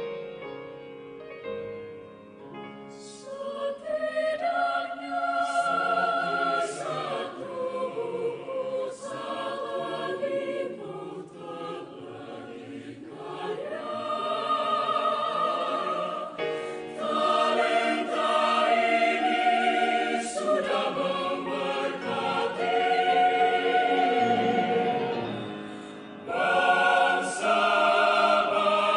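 Choir of male and female voices singing a gospel song, with a piano. The piano plays alone for the first few seconds before the voices come in.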